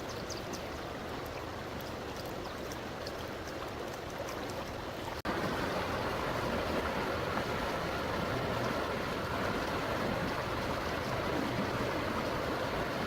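Running water of a stream, a steady rush. It turns suddenly louder at a cut about five seconds in.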